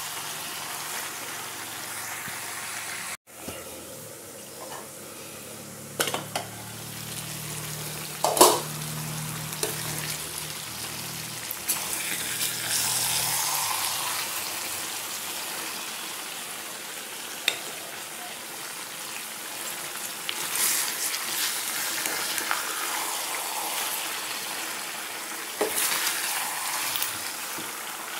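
Pork, potatoes and vegetables sizzling in a steel pot while a metal spoon stirs them. The spoon knocks sharply against the pot a few times.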